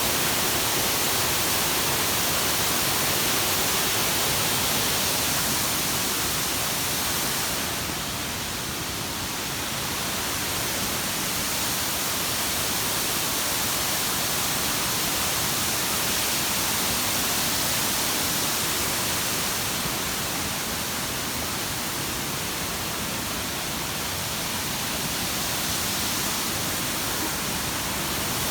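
Waterfall cascades on a river: a steady, loud rush of falling water that barely changes.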